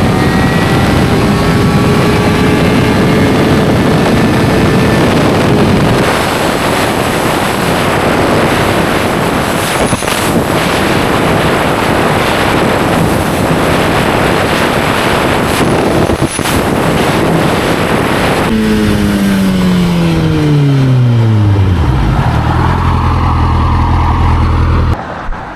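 Motorcycle riding at speed with heavy wind rush on the microphone. About eighteen seconds in, the engine revs fall steeply as it slows, then it idles steadily until the engine cuts off near the end.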